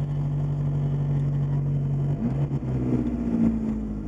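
Porsche 924 Turbo's turbocharged four-cylinder engine idling steadily, then revving up briefly about two seconds in and settling back toward idle near the end.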